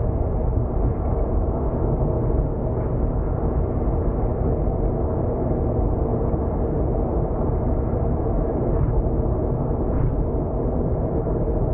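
Car cruising on an expressway, heard from inside the cabin: a steady low rumble of tyre, road and engine noise.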